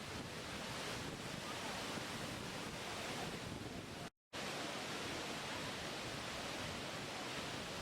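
Steady rushing water, an even roar of noise with no single events in it; it cuts out completely for a split second about four seconds in.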